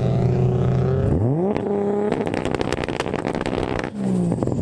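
A modified car engine idling, then revved hard about a second in, followed by a rapid run of pops and crackles on the overrun before it settles back to idle near the end.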